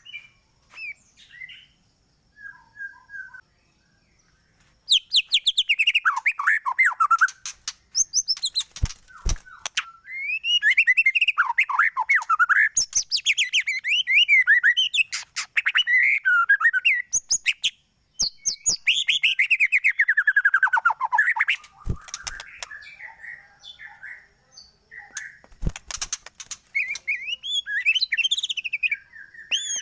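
White-rumped shama (murai batu) singing in full song: bursts of rapid, varied whistled phrases and quick trills mixed with sharp clicking notes, broken by short pauses. The first few seconds hold only a few faint notes.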